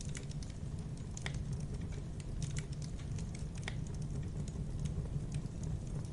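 Campfire burning: a steady low rumble of flames with irregular sharp crackles and pops from the burning wood, several a second.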